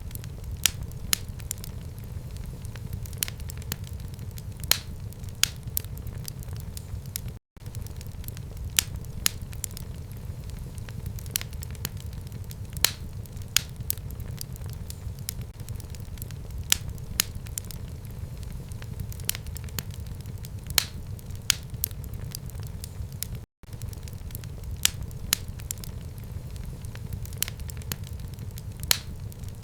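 Wood fire burning in a fireplace: a steady low rumble of flames with frequent, irregular sharp crackles and pops. The sound cuts out for an instant twice.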